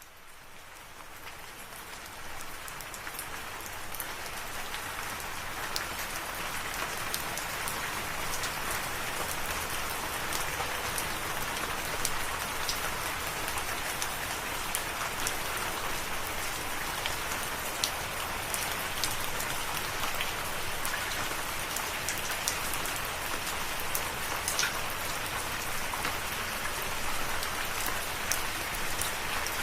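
Rain falling steadily, with individual drops ticking sharply against the even hiss. It fades in from silence over the first few seconds, then holds level.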